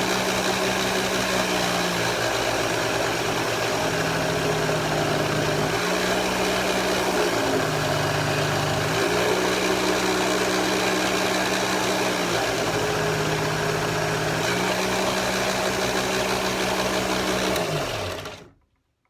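Motor of a lapidary flat lap running steadily while a 14k gold ring band is ground against the lap to make a flat spot, a hum over grinding noise, its pitch shifting a few times. Near the end it is switched off and winds down to a stop.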